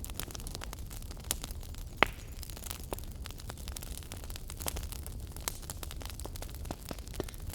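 Fireplace fire crackling: irregular pops and snaps of varying strength over a low steady rumble and hiss. The sharpest pop comes about two seconds in.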